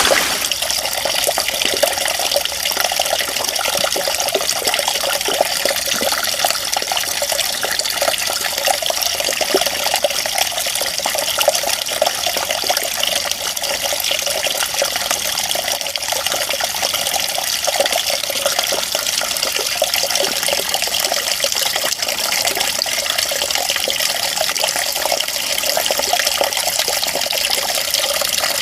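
Water running and splashing in a steady, continuous stream, with a thin, hissy sound that has almost no low rumble.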